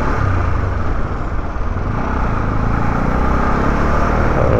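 Motorcycle riding at highway speed: steady engine hum under a loud rush of wind and road noise.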